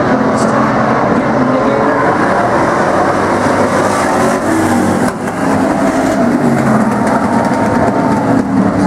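Pack of demo stock cars and trucks racing around an oval, many engines running loud at once with overlapping tones; the sound dips briefly about halfway through.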